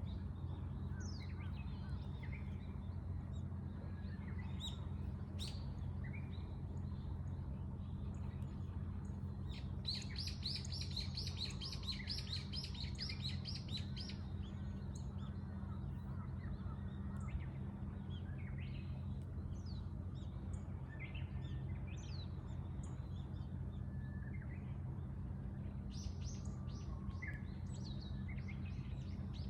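Wild birds singing and calling: scattered short chirps throughout, with one bird giving a fast rapid run of high notes for about four seconds near the middle. A steady low rumble sits underneath.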